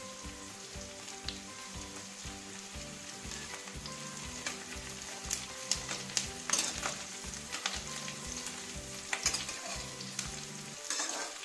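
Sliced onions and green chilies sizzling in hot ghee in a non-stick kadai. A flat spatula stirs and scrapes them, with its clicks against the pan coming more often from about four seconds in.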